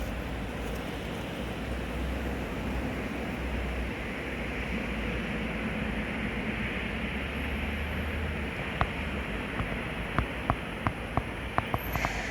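Steady rushing noise with a low rumble underneath, then a string of sharp clicks over the last few seconds.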